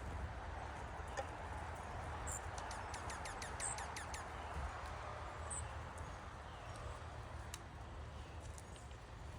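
Small wild birds calling. About two and a half seconds in comes a quick run of short, falling chirps lasting a second or so, with a few high squeaky notes and occasional ticks around it, over a steady low background rumble.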